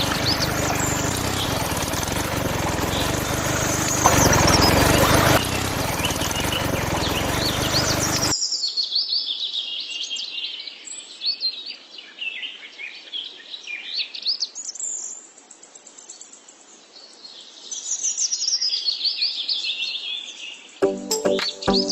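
Birds chirping and singing in quick, high repeated calls. For roughly the first third a loud steady hiss lies under them and then cuts off abruptly. Music starts near the end.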